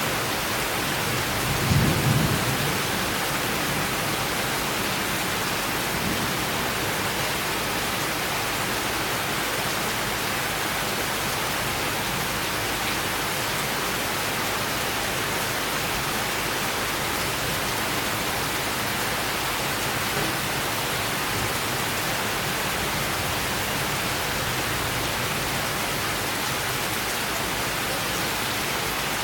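Steady summer rain falling in a thunderstorm, with a brief low rumble of thunder about two seconds in.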